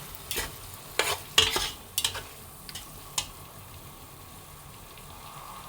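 Chicken pieces sizzling in hot oil and green curry paste in a pan, with a spatula stirring and scraping against the pan several times in the first three seconds, then a steady sizzle.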